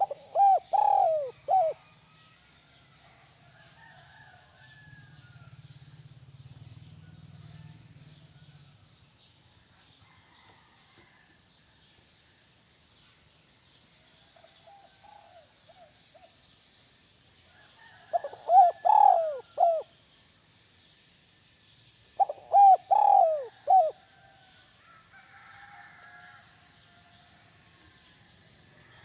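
Spotted dove (tekukur) singing its 'kuk 1' song: three phrases of several descending coos, near the start, about 18 seconds in and about 22 seconds in, with long pauses between. Faint chirps of other birds and a steady faint high hiss lie underneath.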